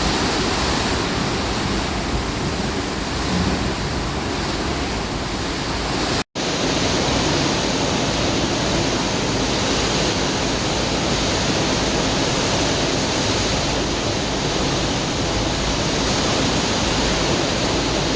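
Storm noise: a steady, loud rush of heavy rain and wind, broken by a split-second dropout about six seconds in.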